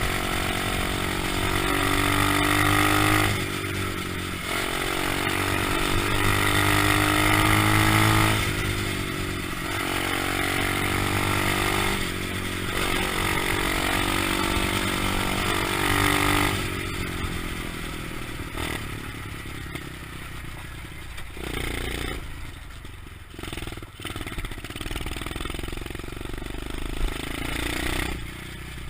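125cc pit bike's single-cylinder engine running and revving, its pitch rising and falling. About halfway through it drops away to a quieter stretch of irregular knocks and noise.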